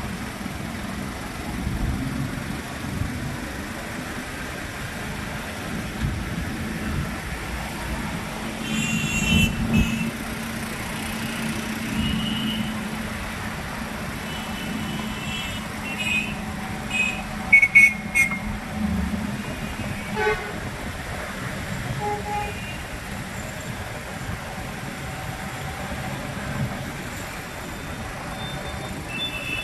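Busy street traffic: a steady low engine hum and road noise, with vehicle horns honking again and again, the loudest a pair of short toots a little past the middle.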